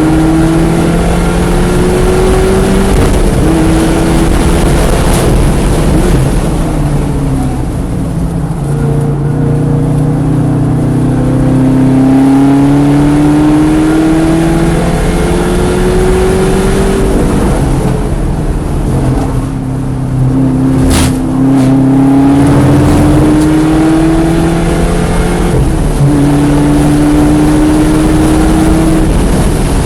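Car engine under hard acceleration on a race track, its pitch climbing and dropping back in steps as it shifts up through the gears, easing off twice for braking into corners. Two sharp clicks come during the second lull, about two-thirds of the way through.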